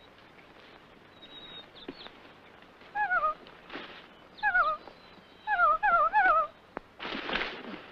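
Bird-like warbling calls: five short wavering notes, each dipping in pitch, first spaced apart and then three in quick succession. A short rustling burst follows near the end.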